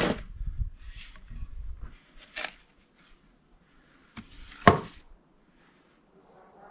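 Pieces of freshly cut wood knocking against each other or against a hard surface. There is a loud knock at the start, lighter ones about one and two and a half seconds in, and another loud knock near the end, over a low rumble that dies away after about two seconds.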